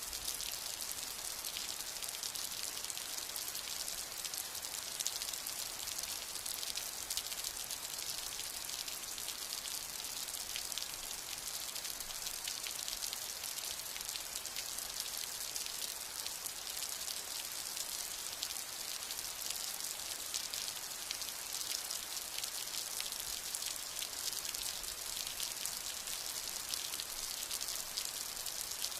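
Steady rain falling, a dense even patter of drops, with no thunder.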